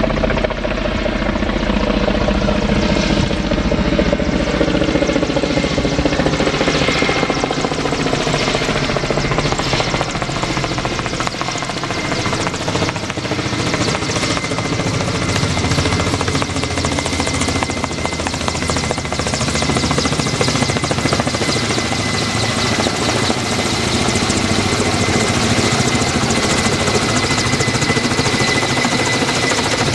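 Kamov Ka-32 coaxial-rotor helicopter with twin turboshaft engines running loud and steady. A high turbine whine comes in about seven seconds in and holds.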